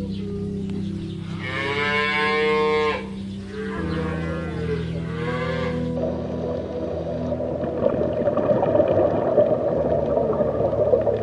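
Cow mooing: one long, fairly high-pitched call, then two shorter ones, over steady low background tones. A dense rough noise takes over in the second half.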